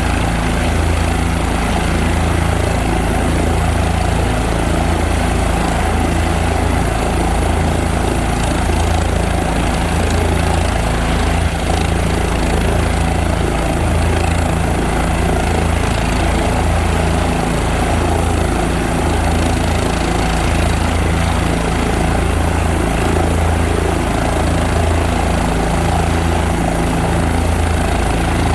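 Police helicopter running on the ground with its rotor blades at flat pitch before takeoff: a steady, loud turbine and rotor sound with an uneven low pulsing beat.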